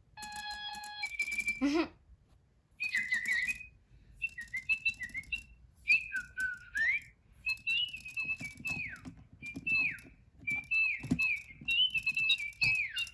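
Electronic Lil' Birds toy birds chirping and tweeting: many short chirps and sliding whistles in bursts. They open with a short held high tone that drops away.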